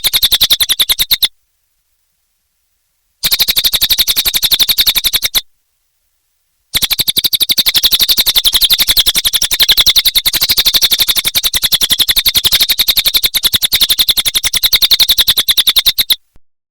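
Cililin songbird singing a rapid, evenly pulsed chattering trill in three bouts, the last and longest about nine seconds, each starting and stopping abruptly.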